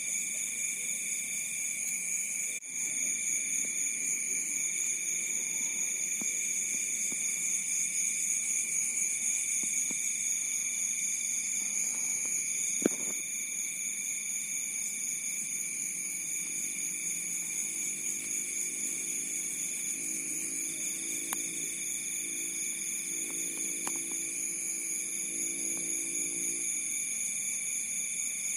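Night chorus of crickets: several steady, high-pitched trills at different pitches overlap, one of them pulsing on and off every couple of seconds. A single sharp click comes about halfway through.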